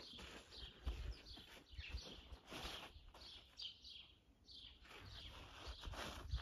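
Small birds chirping again and again in quick, short, downward-sliding notes, with a few soft low thumps.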